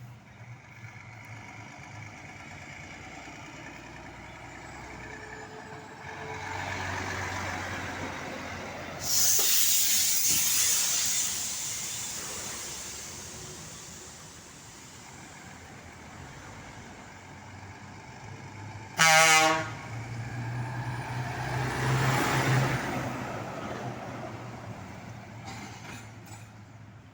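Heavy trucks passing on a road. About two-thirds of the way through comes one short, loud blast of a Scania truck's marine air horn, followed by the engine as the truck goes by.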